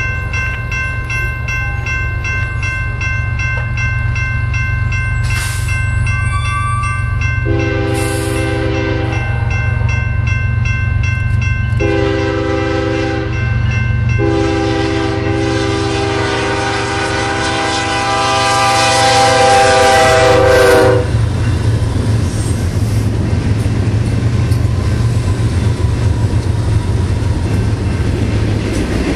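BNSF freight train's diesel locomotives sounding their air horn in four blasts, the last and longest dropping slightly in pitch as the locomotives pass, over a steady engine rumble. A high ringing with about two strikes a second runs through the first dozen seconds. After the horn the freight cars roll by with a steady rushing and clickety-clack of wheels on rail joints.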